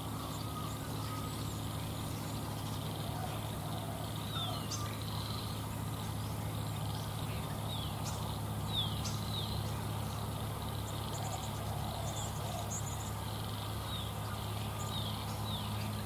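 Small birds chirping: short, quickly falling calls scattered through, with a few sharp high ticks, over a steady low hum.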